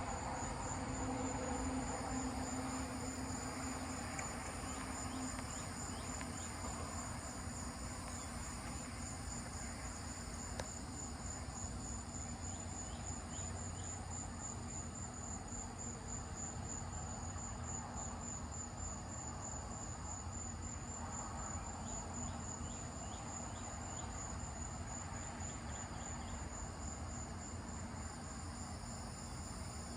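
Insect trilling: one steady, high-pitched, finely pulsing trill that runs on unbroken, over a low, even background noise.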